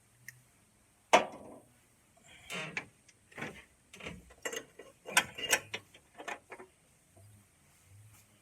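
Hand tools and metal parts being handled: a sharp clank about a second in, then a run of clicks, knocks and short scraping rattles.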